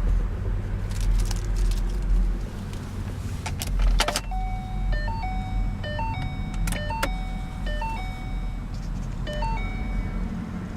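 2011 Mustang GT's 5.0-litre V8 idling, a low steady rumble, with a few sharp clicks around four seconds in. From then on a short electronic tune of chime-like notes repeats over and over.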